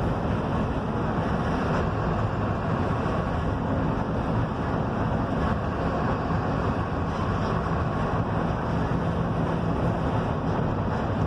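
Mercedes-Benz OF-1721 bus, diesel engine running steadily under way, with road and wind noise through the cabin.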